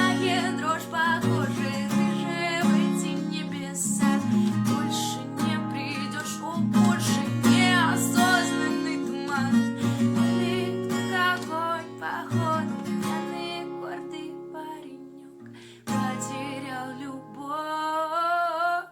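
Acoustic guitar playing a song's instrumental outro, with a wordless vocal line over it. The music dies down about thirteen seconds in, comes back with a last phrase about sixteen seconds in, and cuts off suddenly at the end.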